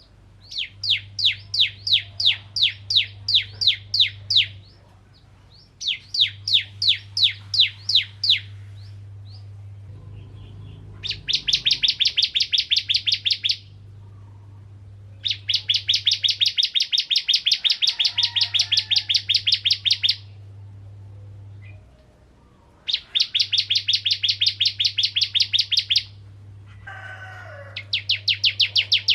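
Ciblek kristal (bar-winged prinia) singing in bursts of rapidly repeated sharp chirps, each burst a few seconds long with short pauses between. The first two bursts are slower, about three notes a second, and the later ones much faster.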